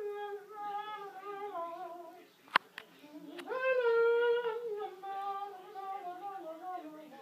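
A person humming a wordless tune in stepped phrases that fall in pitch, with a sharp click about two and a half seconds in.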